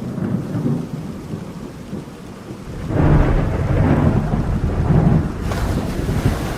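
Rain falling during a thunderstorm, with a low rolling rumble of thunder that swells about halfway through and stays loud to near the end.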